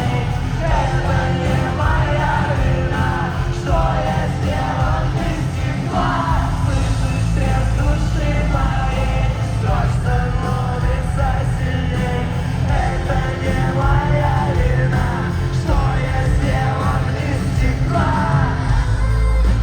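Live rock band playing a song, with a singer's melody over a loud, heavy bass line that runs throughout.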